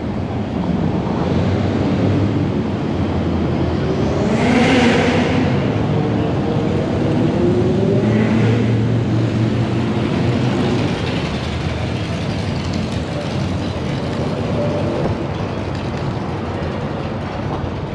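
Car engines running at a car meet, with an engine note that rises and falls loudest about five seconds in and again, less strongly, about eight seconds in.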